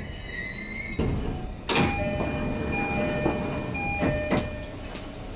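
Inside a Keio Line electric train: running noise with a faint whine early on, a sharp clunk about a second and a half in, then clear steady chime-like tones that sound again and again.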